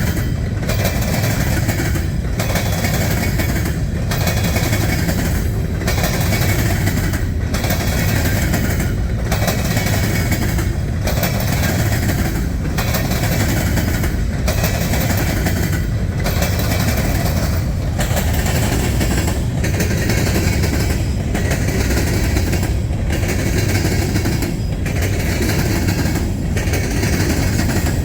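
Freight cars rolling past on the rails in a steady, loud rumble. A regular beat repeats every second and a half to two seconds as car after car goes by.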